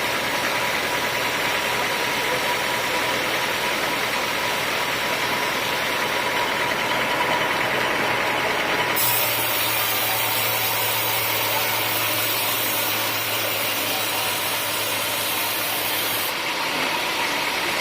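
Sawmill machinery running steadily, engine-driven like a bandsaw mill. From about nine seconds in to about sixteen, a brighter hiss is added over a low hum, then drops back.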